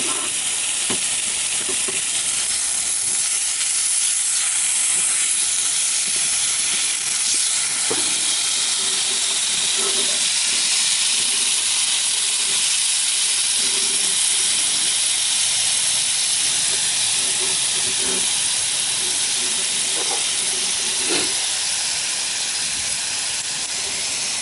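Meat sizzling steadily in a cast-iron skillet (a Nitori skillet) over a fire, with a few faint pops.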